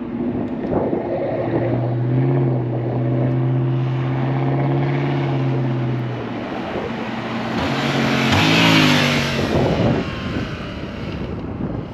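Motorcycle engine running at a steady pitch while riding, then changing and rising in pitch near the end as it revs up, with a loud rush of wind noise at the same time.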